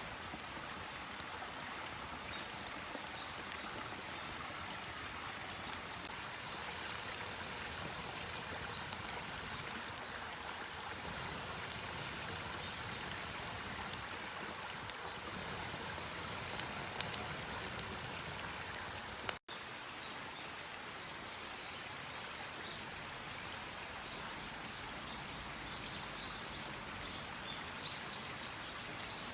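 Wood campfire crackling, with occasional sharp pops over a steady hiss.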